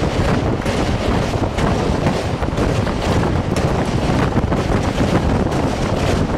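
Loud rushing noise of a moving train, with strong wind buffeting the microphone in irregular gusts over a low, steady rumble.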